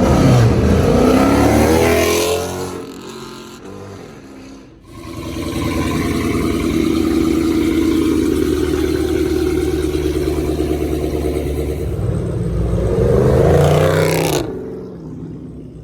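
A loud car engine revving and accelerating. Its pitch climbs over the first two seconds, then falls away to a lull. After that it holds a steady note for several seconds, climbs again, and cuts off sharply near the end.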